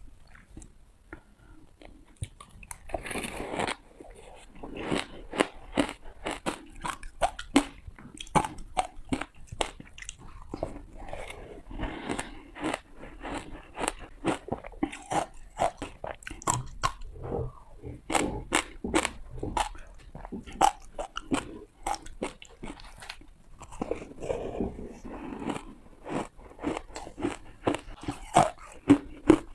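Ice being bitten and crunched between the teeth: a continuous string of sharp cracks and crunches, with denser bouts of crunching a few seconds in and again near the end.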